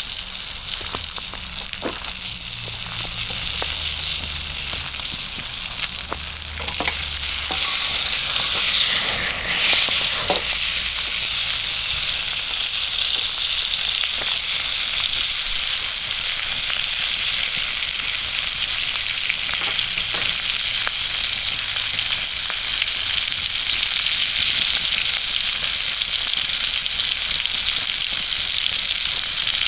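Ground-beef hamburger steak frying in a cast iron skillet over a campfire, a steady sizzle with a few small clicks early on. About eight seconds in, the sizzle swells with a brief louder surge and stays stronger after that.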